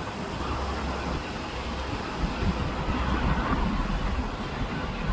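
Wind buffeting the microphone: a gusty low rumble that swells and drops, over a steady hiss.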